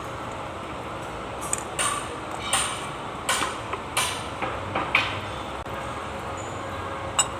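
Metal tools and parts clinking and knocking: a run of about eight sharp strikes over a few seconds, then one more near the end, over a steady hiss.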